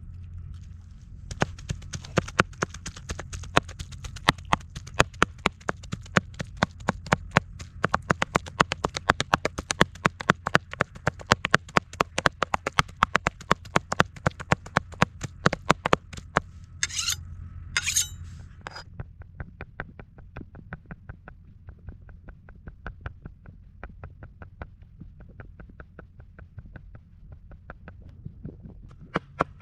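A knife chopping rapidly on a cutting board, about three to four even strokes a second. Two short scrapes come a little past halfway, then the chopping resumes more softly and grows louder again near the end.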